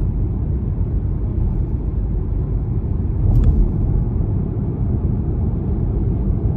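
Steady low rumble of a BMW 320d xDrive on the move, its four-cylinder diesel and tyres running at a constant pace. A single short click about halfway through.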